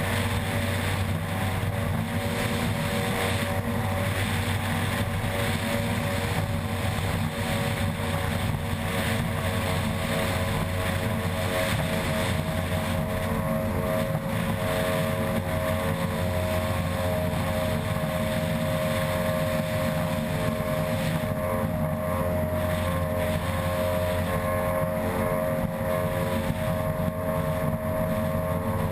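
Racing ski boat's outboard engine running flat out at a steady, unbroken pitch.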